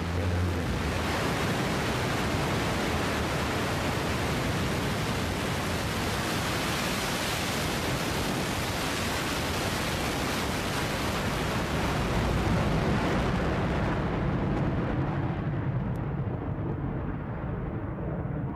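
Blue Origin New Shepard's BE-3 hydrogen-oxygen rocket engine firing at liftoff: a steady, loud rumbling rush of noise. Its high end fades away over the last few seconds as the rocket climbs.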